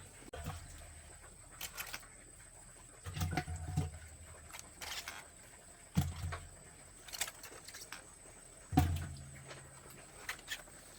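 Irregular dull thuds, three heavier ones roughly three seconds apart, with scattered light clicks and snaps between them.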